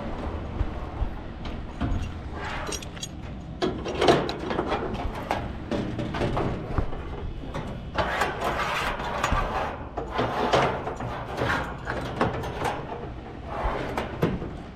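A crane truck's engine running steadily under irregular clanks, scrapes and rattles of metal as a rooftop package unit is lowered into place.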